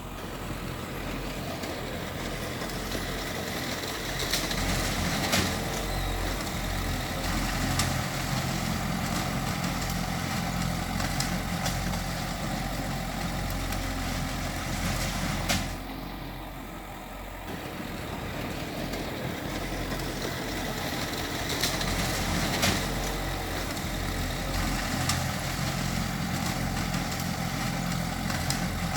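Heavy diesel earthmoving machine running steadily, with sharp metallic clanks now and then and a short lull about halfway through.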